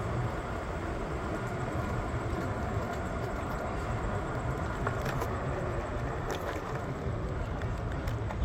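Steady rumbling noise of a moving PATH rapid-transit train, with a few faint clicks and squeaks about five to six and a half seconds in.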